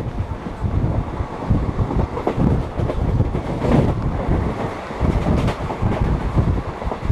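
Moving passenger train with wind buffeting the microphone: a loud, uneven low rumble that swells and drops irregularly.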